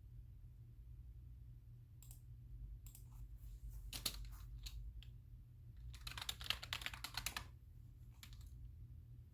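Computer keyboard being typed on in short bursts: a few scattered keystrokes, then a quick, dense run of keys about six seconds in.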